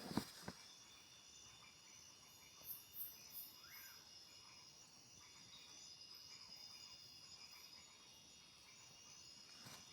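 Faint chorus of forest insects such as crickets, a steady high-pitched trilling that goes on throughout, with a couple of sharp clicks at the very start and a few soft short calls about three seconds in.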